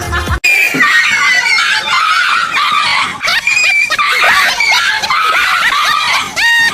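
Dog screaming and yelping in high, frantic, wavering cries, with a brief steady whine near the end.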